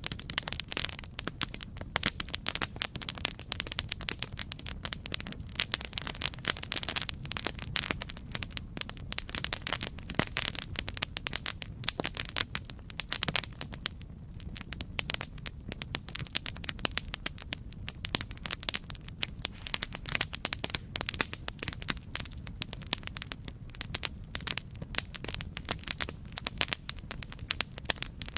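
Campfire crackling: a constant stream of irregular sharp pops and snaps from burning wood over a steady low rumble of flame.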